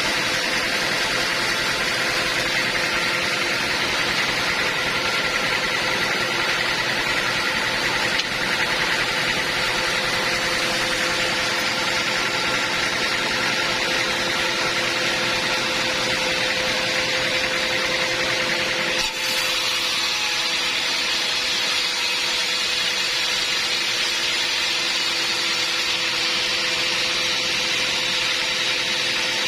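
Sawmill machinery running steadily: a continuous noisy drone with a few steady hum tones, and a single brief click about nineteen seconds in.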